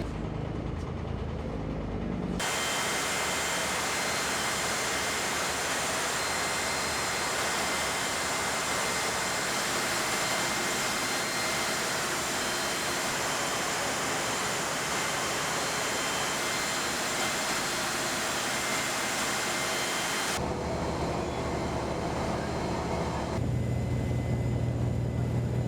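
Riverboat under way: a steady loud rushing roar with faint high, even whines, set between stretches of low engine drone that stop and start abruptly about two seconds in and again near the end.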